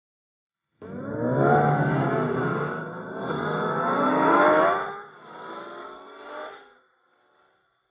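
Several motorcycle engines revving and accelerating, their pitches rising and falling over one another. The sound cuts in abruptly about a second in and dies away near the end.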